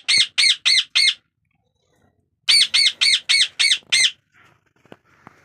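Green ringneck (rose-ringed) parakeet giving loud, harsh squawks: four quick calls, a pause of over a second, then six more in a row. A few faint clicks follow near the end.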